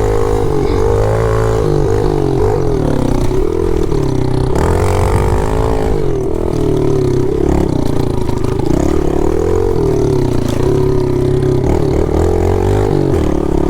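Pit bike's small single-cylinder engine running hard as it is ridden, its pitch rising and falling over and over with the throttle.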